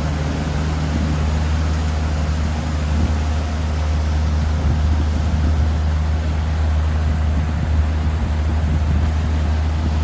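Fishing boat's outboard motor running at a steady speed, a constant low hum with rushing wind and water noise over it.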